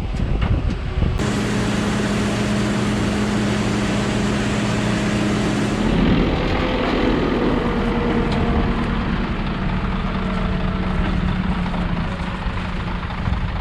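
Engine of heavy farm machinery running steadily. The sound changes abruptly about a second in and again about six seconds in.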